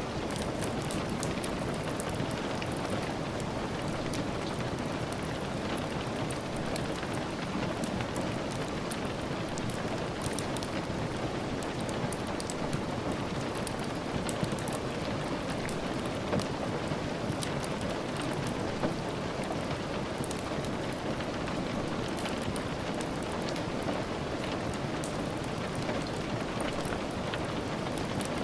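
Steady rain falling, with many small sharp crackles and ticks scattered through it.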